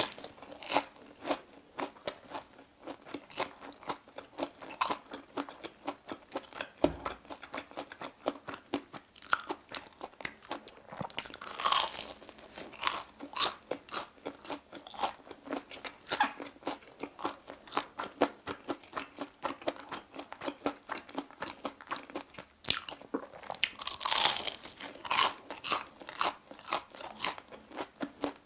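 Close-miked crunching and chewing of a deep-fried Korean sausage corn dog's crisp batter crust. Louder biting crunches come at the start, about twelve seconds in and again about twenty-four seconds in, with steady crunchy chewing between.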